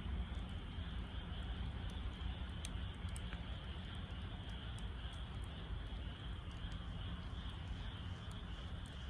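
Wood fire burning in a Snow Peak fire pit: scattered small crackles and pops over a steady low rumble.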